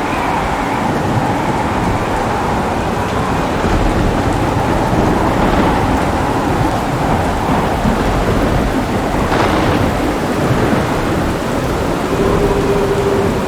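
Heavy rain falling steadily, with thunder rumbling low and continuously underneath.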